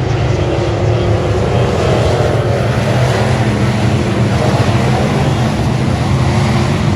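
Dirt-track race car engine running steadily at speed, a loud continuous drone.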